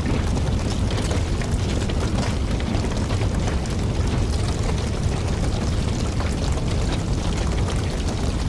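Wood campfire burning steadily: a low rumble of flames with frequent small crackles and pops from the burning logs.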